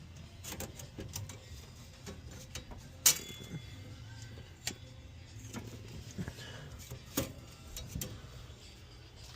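Light metal clicks and scrapes of an engine oil dipstick being pulled out, wiped and slid back in. The sharpest click comes about three seconds in, over a steady low hum.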